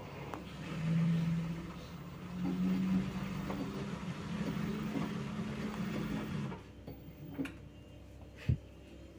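LG F2T9GW9P direct-drive washing machine in its spin-only cycle, the motor humming as it turns the drum, the pitch stepping up twice before it cuts off about two-thirds of the way through. A few sharp clicks follow, the loudest near the end.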